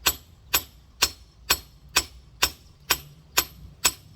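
Rock hammer tapping a large geode, nine sharp ringing strikes at an even pace of about two a second, as it is worked along a crack line to split it.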